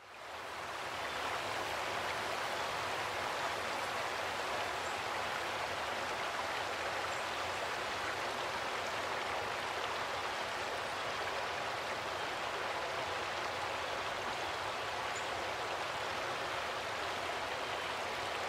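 Steady rush of running water, like a small stream or cascade, fading in at the start and then holding even.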